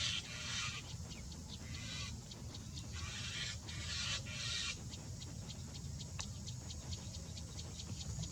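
Bird sounds: three harsh, hissing calls in the first half, then a long run of quick, sharp clicks or taps, about five or six a second.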